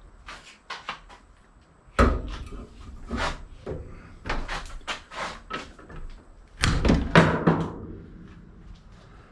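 A series of knocks and clattering impacts, the loudest about two seconds in and again around seven seconds in.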